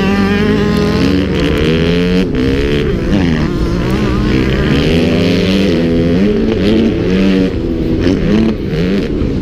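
Motocross bike engines revving hard, the pitch climbing and dropping again and again with throttle and gear changes; more than one engine is heard at once.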